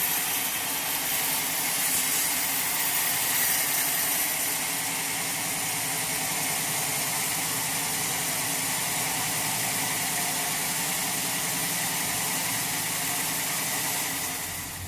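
Sawmill machinery running steadily: a constant mechanical hum under a strong hiss, dropping off slightly near the end.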